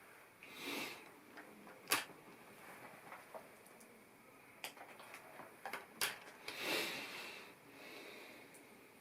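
Plastic LEGO pieces being handled and pressed together: a few sharp clicks, a cluster of them about five to six seconds in, and two longer rustles of pieces being moved about.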